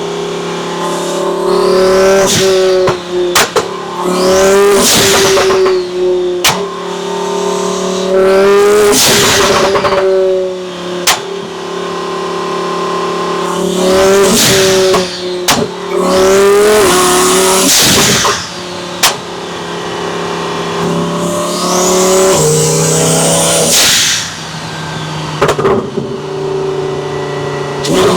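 Twin-turbo Lamborghini Huracán 5.2-litre V10 pulling hard in repeated bursts of acceleration, about six in all, dropping back to a steady drone between them. Sharp cracks come as each burst ends, and a rising high whine comes with the later pulls.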